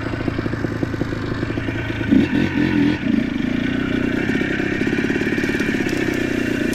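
ATV engine running while riding, with the machine clattering; the engine picks up a little about three seconds in.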